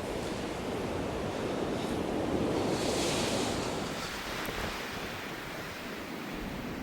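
Blizzard wind blowing in a steady rush, with a gust swelling about three seconds in and then easing.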